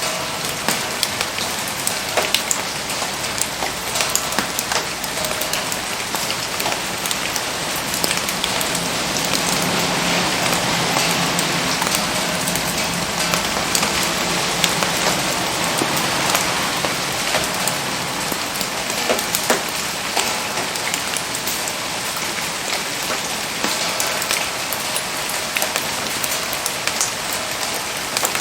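Steady rain falling, a dense hiss scattered with many sharp drop ticks, growing a little louder through the middle stretch.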